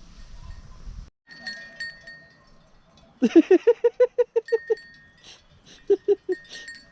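A sheep or goat of a grazing flock bleating: a long, quavering call starting about three seconds in, then a shorter one near the end. Bells on the animals ring thinly in the background.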